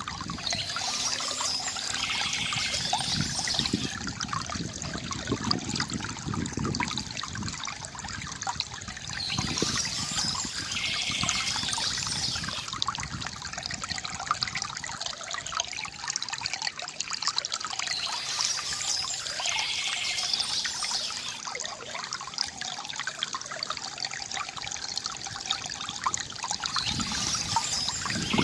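Water trickling and gurgling from a bamboo fountain, with bursts of bird chirping that come back about every nine seconds.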